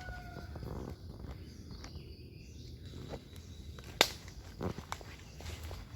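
Faint rustling and movement, broken about four seconds in by a single sharp crack, with a softer knock shortly after.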